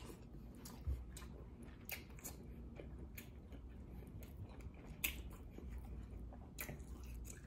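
A person chewing a mouthful of tender lobster tail meat, quiet, with scattered wet mouth clicks and smacks.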